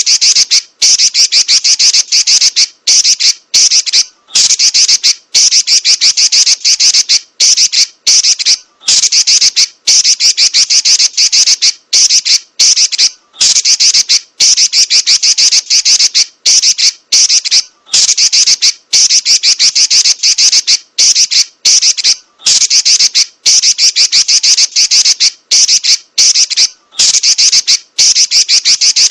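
Female Pekin robin (red-billed leiothrix) chattering: loud, high-pitched, rapid rattling rolls in long runs, broken by short pauses every second or two.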